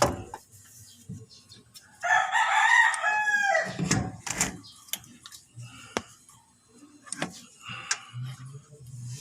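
A rooster crows once, about two seconds in, a call of under two seconds that falls in pitch at its end. Several sharp clicks and knocks follow.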